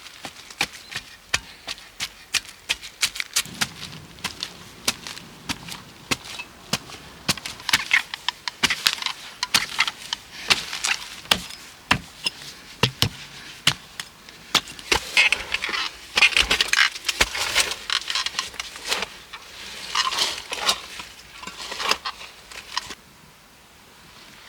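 Dry wood cracking and snapping, many sharp irregular snaps and knocks with bursts of rustling, stopping about a second before the end.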